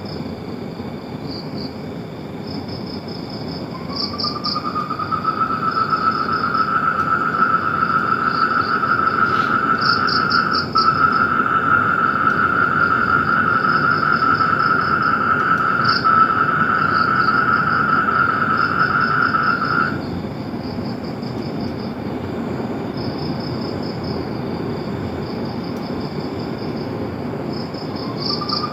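A chorus of insects and frogs: high pulsed chirps repeat in short bursts throughout, while a long, steady, high trill comes in about four seconds in, stops abruptly about twenty seconds in, and starts again near the end.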